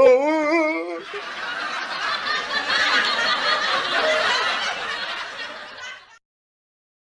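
Laughter sound effect: a single high, wavering laugh for about the first second, then a denser, noisier spell of laughing that fades and cuts off abruptly about six seconds in.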